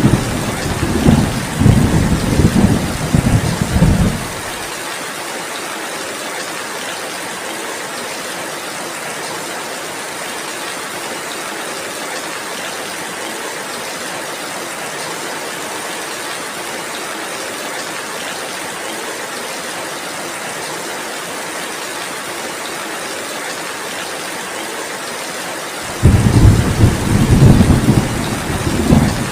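Heavy rain falling steadily, an even hiss, with thunder rumbling low in the first four seconds; the thunder cuts off suddenly, leaving only the rain, and rolls in again near the end.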